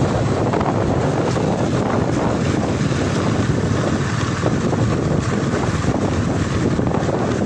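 Steady wind noise buffeting the microphone while riding on a motorcycle.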